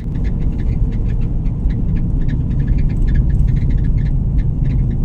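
Road vehicle running with a steady low rumble, with many short, irregular high-pitched ticks or chirps over it.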